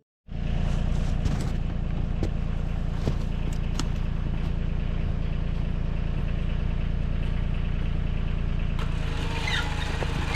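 Tractor engine running steadily at an even pitch, with a few short clicks over it.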